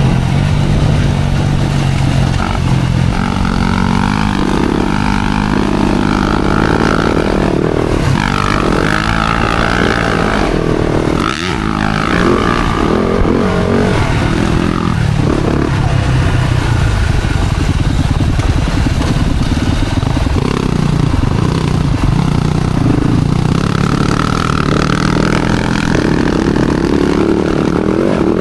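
Yamaha four-stroke single-cylinder motocross bike engine running hard on the throttle, its pitch rising and falling over and over as it revs up and backs off. The sound drops briefly about eleven seconds in.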